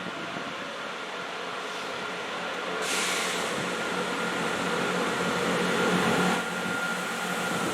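Train running at a railway station: a steady rumble with a thin high whine and a low hum, growing louder from about three seconds in.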